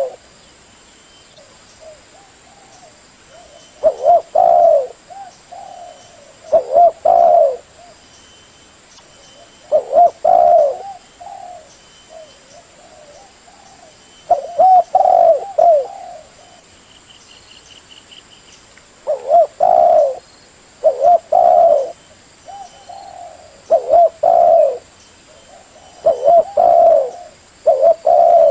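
Spotted dove (Spilopelia chinensis) cooing, the call used to lure wild doves. Short phrases of a few low, mellow coos come every two to four seconds, with faint high chirps between them.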